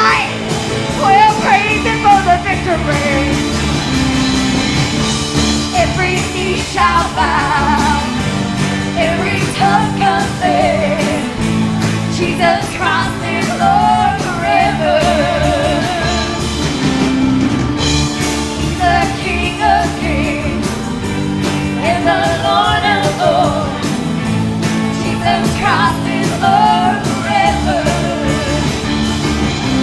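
Live worship music: a band playing with singing over it, the melody wavering above steady chords.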